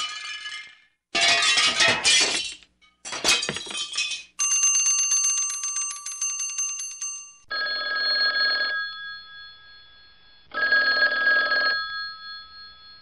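A series of bell-like ringing sounds, one after another, each starting and stopping abruptly. The longest rings steadily for about three seconds.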